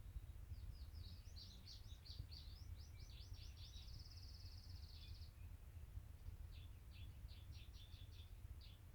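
Faint, quick high-pitched bird chirps, with a short buzzy trill about four seconds in, then a second run of chirps after a brief pause, over a low background hum.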